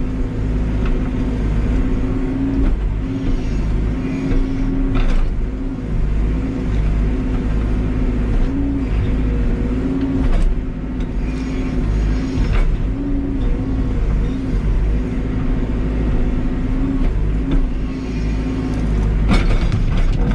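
Backhoe loader's diesel engine running hard, its pitch dipping and recovering over and over as the hydraulics take load, with a few sharp knocks.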